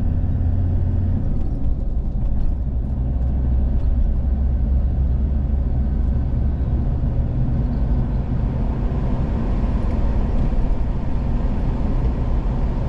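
Steady low rumble of a car's engine and tyres on the road, heard from inside the moving vehicle's cabin, with a few faint clicks in the first few seconds.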